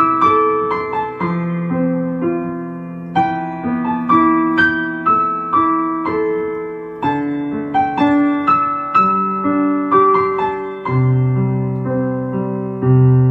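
Slow, mellow chords played on an electric piano, each struck note ringing out and fading, with a low bass note entering about eleven seconds in.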